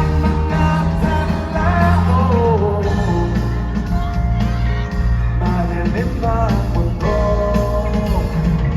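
Live band playing a pop-rock song with strong bass, and a voice singing the melody over it.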